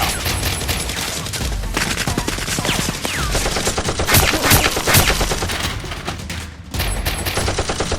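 Rapid automatic gunfire, many shots a second in continuous bursts, dipping briefly about six and a half seconds in and then resuming; a gunfire sound effect laid over a Nerf blaster fight.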